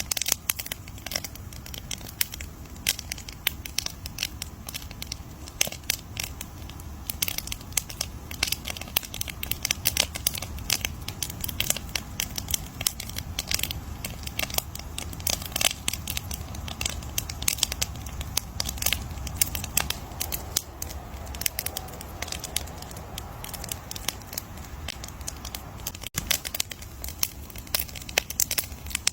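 Wood campfire crackling: dense, irregular pops and snaps over a steady low rumble.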